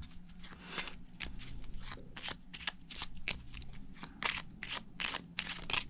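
Playing cards being handled: a run of short, irregular flicks and snaps of the cards.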